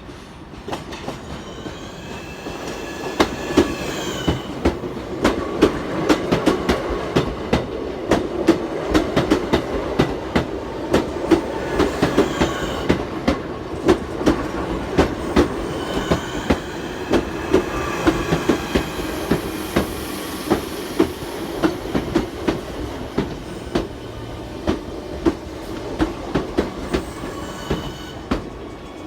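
Class 465 Networker electric multiple unit running into the station: a steady rumble with wheels clicking over rail joints many times, and a high whine that rises and falls a few times. It grows louder after about three seconds and eases off near the end.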